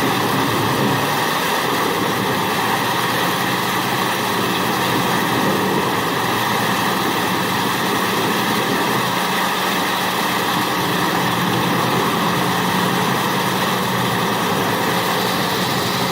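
Large forestry wood chipper running steadily: a continuous engine drone with a constant higher-pitched tone above it, even throughout.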